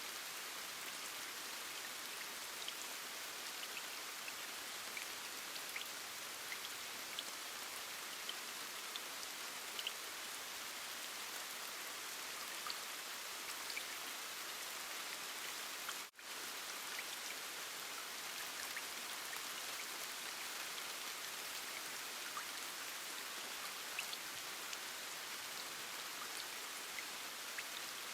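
Steady rain with individual drops ticking through it, cutting out for a split second a little past halfway.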